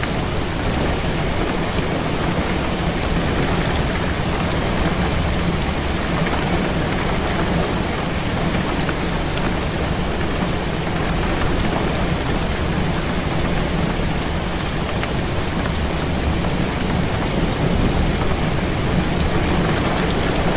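Heavy rain beating steadily on a window, with a continuous low rumble underneath.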